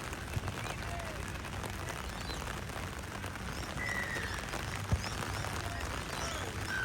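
Outdoor field ambience: a steady low wind rumble on the microphone with faint distant voices and scattered high bird chirps. There is a short whistle-like tone about four seconds in and a single thump about a second later.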